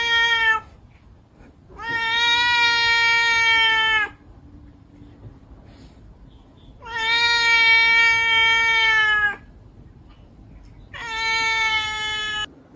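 A pet animal's long, drawn-out cries, each held on one steady pitch for about two seconds and repeated four times with short pauses between.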